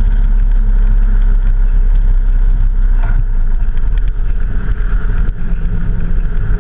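A vehicle under way: the engine runs steadily under a steady rush of wind and road noise.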